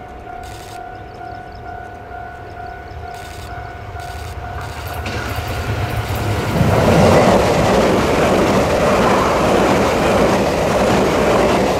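A Tze-Chiang express train approaching and passing a level crossing. Its rumble builds over the first six seconds and then stays loud as the train goes by. A steady warning tone from the crossing signal sounds until the train's noise covers it, about six seconds in.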